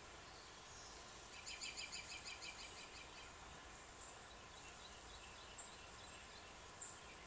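Faint bird chirps: a quick string of high chirps lasting about a second and a half, then scattered, fainter single chirps.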